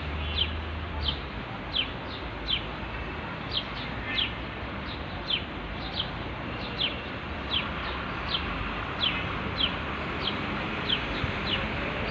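A bird calling with a short, high chirp that falls in pitch, repeated about every two-thirds of a second over a steady hiss.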